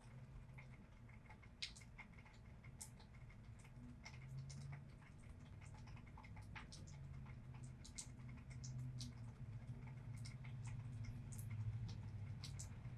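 Scattered raindrops dripping and pattering in light rain, as irregular sharp ticks a few times a second over a low steady rumble.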